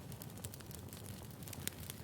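Wood fire crackling: a steady hiss with scattered sharp pops from burning firewood.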